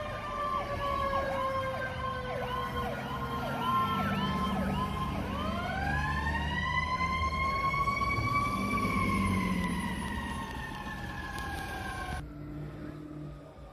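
Fire engine sirens: a slow wail falling in pitch with a fast yelp over it, then a wail that rises, peaks and slowly falls, over a low truck-engine rumble. The sirens cut off sharply near the end.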